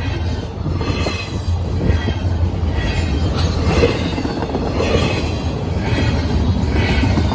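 Norfolk Southern train rolling past: a steady low rumble with wheel and rail noise on top.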